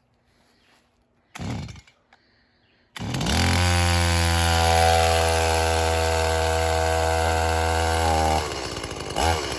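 Brand-new Stihl two-stroke chainsaw being pull-started on half choke: a brief burst about a second and a half in, then the engine catches about three seconds in and runs at a steady, loud fast idle. Near the end it drops to a lower, rougher idle with a couple of short revs.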